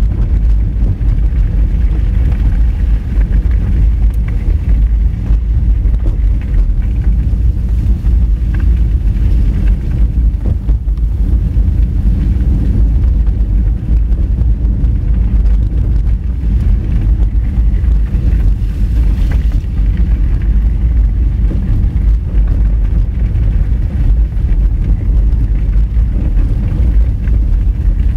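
Honda Fit driving on an unpaved gravel forest road: a steady low rumble of tyres and running gear on the dirt surface, with wind noise on the microphone.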